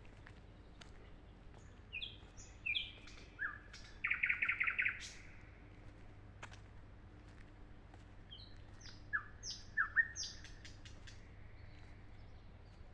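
Nightingale singing in two phrases: short sharp whistled notes building to a loud, fast trill of about eight notes around four seconds in, then another run of sharp notes around nine to ten seconds in.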